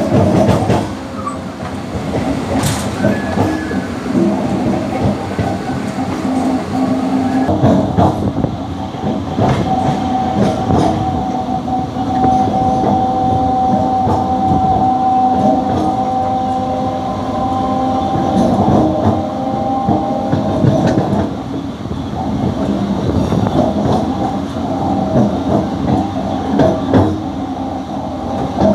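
MEMU electric multiple-unit train running, heard from inside the coach: wheels clattering over the rails with a steady rumble. A steady whine joins in for about ten seconds in the middle.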